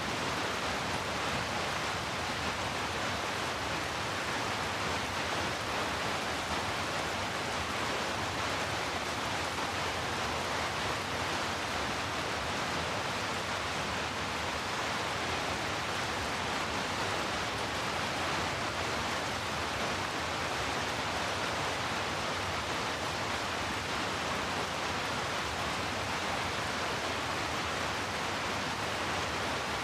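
Steady, even hiss of heavy rain, with no single drops or thunder standing out.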